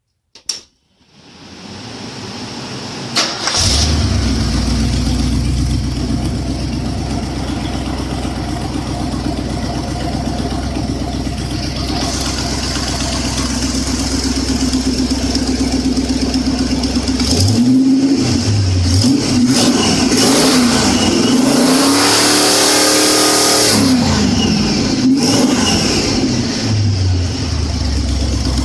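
Ford 390 FE big-block V8 on an engine test stand being cranked and catching about three seconds in, then running steadily. In the second half it is revved up and down several times, held high for a couple of seconds, then settles back to idle.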